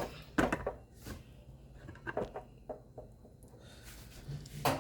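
Handling noise from a camera being moved and set down on a kitchen surface: a few scattered knocks, clicks and rubs.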